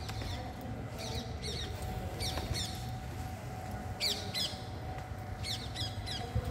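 Birds calling outdoors: short squawking calls that slide downward, mostly in quick pairs, repeating every second or so over a low steady rumble.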